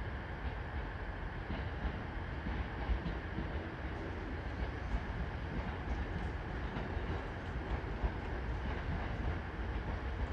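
JR East E657 series electric train approaching along the track, a steady low rumble with a few faint clicks of its wheels crossing rail joints.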